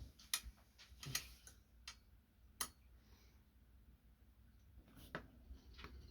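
A few scattered sharp clicks and light knocks of hand tools and metal parts being handled while a minibike seat is fitted. The loudest fall in the first three seconds, with a pair about five seconds in.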